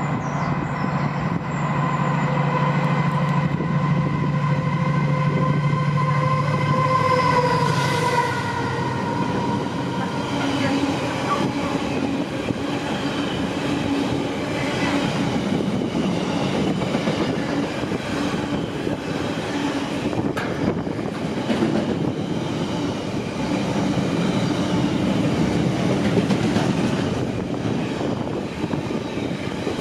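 Freight train passing: for the first eight seconds or so the locomotive's steady engine or traction drone is heard, dropping slightly in pitch as it goes by. It is followed by the continuous rumble and clatter of the wagons rolling past.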